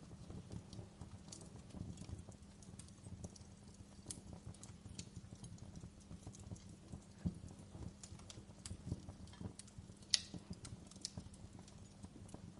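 Wood fire crackling: irregular small pops and snaps over a soft low rumble of the flames, with a sharper pop about ten seconds in.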